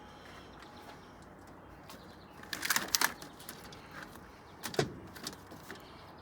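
Scattered knocks and rattles from scrap parts being handled: a short cluster of them about two and a half seconds in, and one sharper knock near five seconds.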